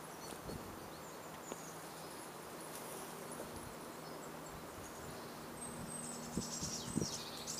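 Small birds chirping in short, high calls scattered throughout, with a denser twittering spell near the end, over a faint steady low hum. A few soft footstep thuds come in near the end.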